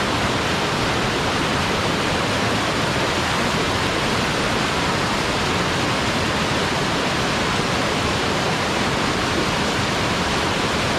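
Steady, loud rush of water from a small mountain headwater stream or cascade.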